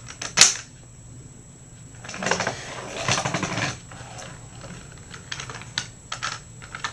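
Plastic toy train engines being handled and set down on a hard surface: a sharp click about half a second in, then rustling and scraping with scattered small clicks.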